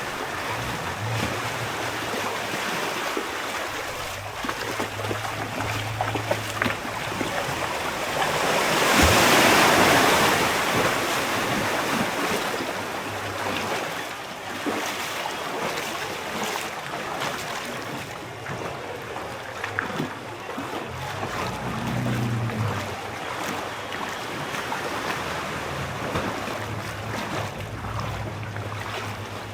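Wind buffeting the microphone over sea and waves, with a louder rush of water and wind about nine seconds in and a low hum coming and going underneath.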